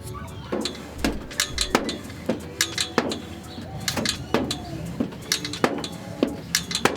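A pipe cutter being worked around a steel exhaust pipe: sharp metallic clicks about twice a second, each with a short squeaky ring from the metal.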